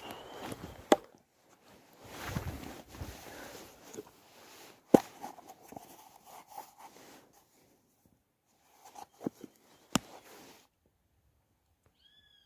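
A digging tool scraping and striking hard, compacted soil while digging for worms, with three sharp knocks about a second in, at five seconds and at ten seconds. Near the end, after the digging stops, a bird gives a short falling chirp.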